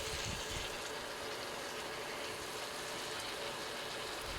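Steady hiss of a pan of sugar syrup cooking on the stove, with condensed milk just added.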